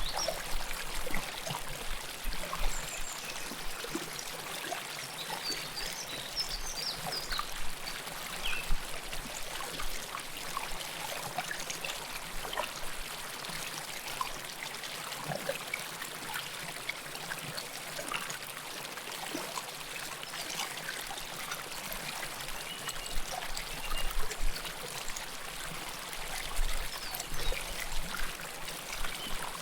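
River water flowing close to the microphone: a steady rush with frequent small gurgles and splashes.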